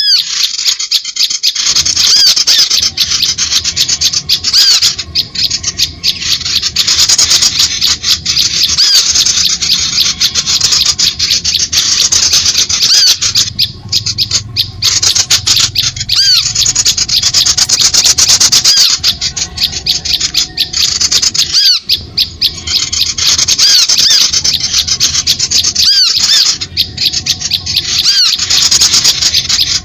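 Bird-lure recording: a dense chorus of small birds' agitated squeaky chirps and calls, the kind of excited mixed-flock sound used to draw birds in to limed sticks.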